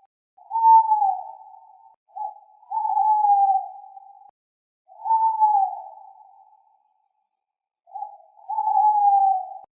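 An owl hooting, four times: each call is a short note followed by a long, slightly falling hoot, repeated every two to two and a half seconds.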